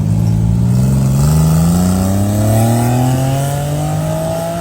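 Honda Acty kei truck's small three-cylinder engine accelerating away, its pitch rising steadily over several seconds.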